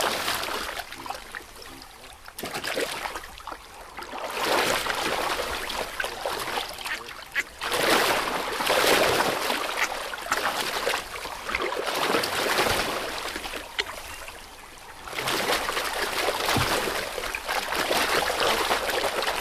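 River water splashing and rushing in a series of surges that swell and fade every few seconds.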